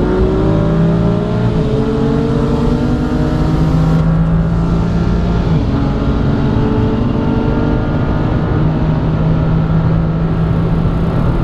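Car engine under hard acceleration, its pitch climbing steadily, with a gear change about four seconds in and another shift near six seconds.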